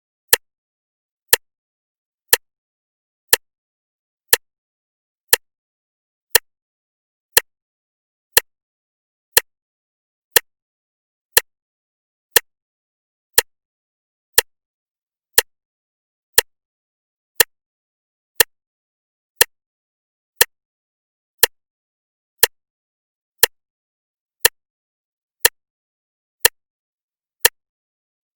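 Clock ticking steadily, one sharp tick each second with silence between the ticks.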